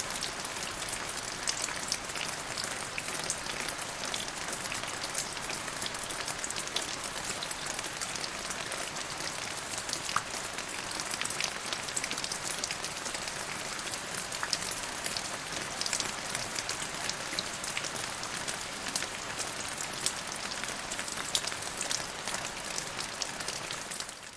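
Steady rain falling, an even hiss with many small drop ticks and taps, fading out near the end.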